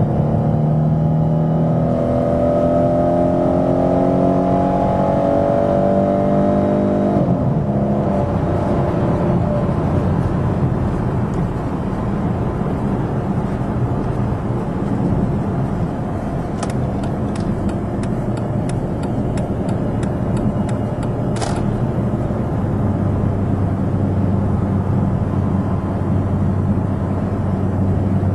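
Dodge Charger V6 with a Magnaflow dual exhaust heard from inside the cabin: the engine note climbs steadily under acceleration, drops suddenly about seven seconds in, then settles into a steady low cruising hum with tyre and road noise. A run of even clicks sounds for a few seconds past the middle.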